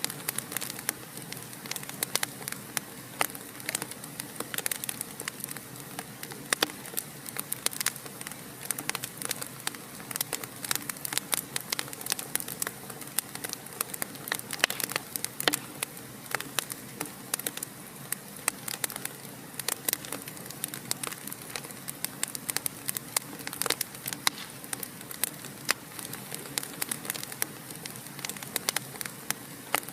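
Fireplace fire crackling: a dense, irregular run of sharp pops and snaps over a steady soft hiss.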